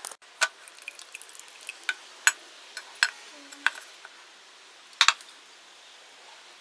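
Metal tools and engine parts clinking and tapping against each other: about a dozen short, sharp clinks at irregular intervals, with a close pair about five seconds in.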